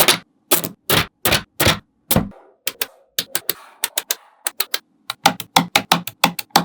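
Small neodymium magnetic balls clicking and snapping together one after another in sharp, separate clicks, a few per second, coming quicker near the end.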